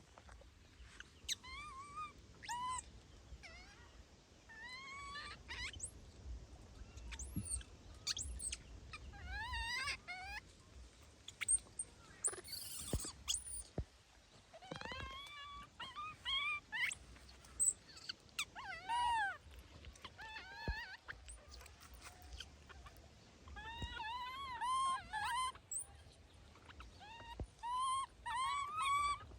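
Baby monkeys crying: short, high, arching squeals and whimpers, often in quick runs of several calls, repeated throughout.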